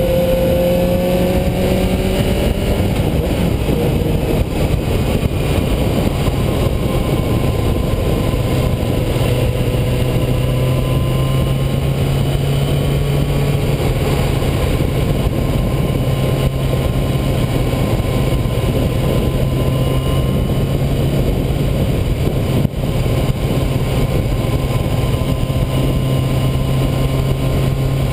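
Yamaha YZF-R6 sportbike's inline-four engine and exhaust running under way. The engine note eases down about two seconds in, then holds steady at a low cruise.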